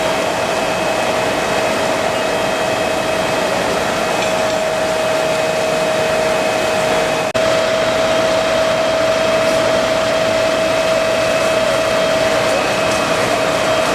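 Loud, steady rushing noise with a constant mid-pitched hum running through it, like a running machine or pump; it breaks off for an instant about seven seconds in and resumes unchanged.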